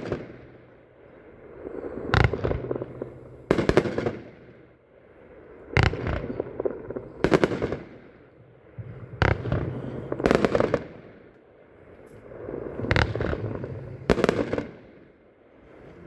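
Multi-shot firework cake firing its shots: about eight sharp bangs, coming in loose pairs roughly a second and a half apart, with a swelling hiss and rumble between them.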